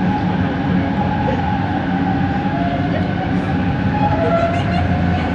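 Kelana Jaya Line LRT car running, heard from inside: a steady low rumble with a motor whine whose pitch shifts up and down. The uploader calls it a weird motor noise from the train's original linear induction motor.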